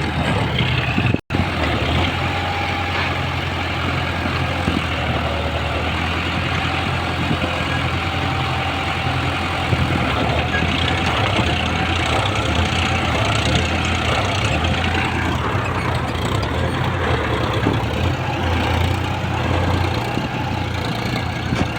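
Mahindra tractor's diesel engine running steadily at low revs, with a brief gap in the sound about a second in.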